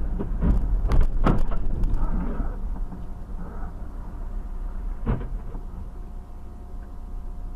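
Dash-camera recording of a car on the road: a steady low rumble, with a few sharp knocks in the first second and a half and another about five seconds in.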